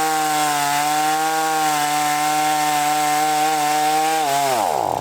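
Black Max 16-inch chainsaw running at a steady high speed as it cuts a chunk from a tree. Near the end it is released, and its whine falls away to a stop within about half a second.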